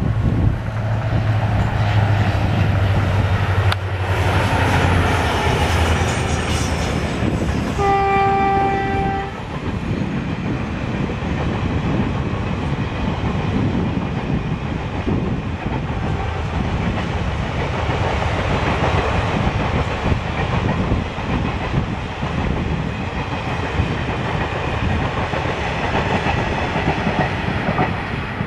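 WDP4D diesel locomotive's EMD two-stroke V16 engine running as it passes, then one horn blast of about a second. After that comes the rumble and clickety-clack of the passenger coaches rolling past.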